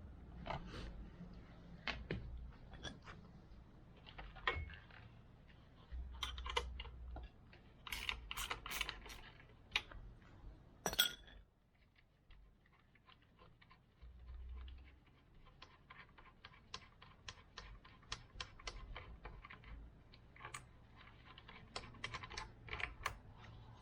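Light clicks and clinks of hand tools and small metal parts being handled while a motorcycle front fork is taken apart, with a dense run of quick clicks in the second half.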